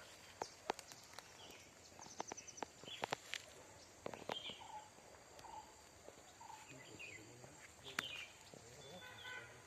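Faint scattered clicks and knocks, with short high chirps in between.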